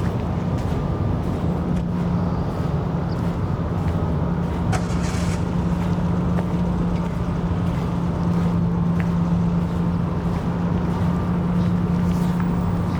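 A large motor vehicle's engine running steadily with a constant low hum, and a few faint clicks over it.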